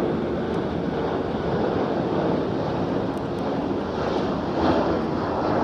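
Jet airliner engines making a loud, steady roar.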